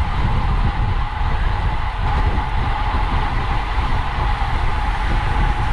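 Wind rushing over the camera's microphone on a racing bicycle at speed, a steady heavy rumble with the hiss of the road beneath it.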